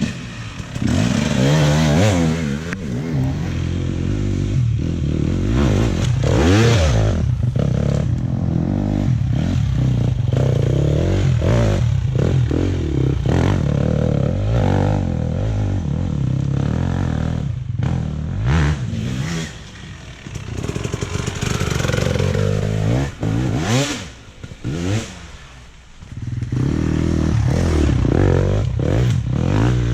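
Dirt bike engine revving up and down over and over as the bike is ridden along a trail, the pitch climbing and dropping with throttle and gear changes. It eases off briefly a few times past the middle before picking up hard again.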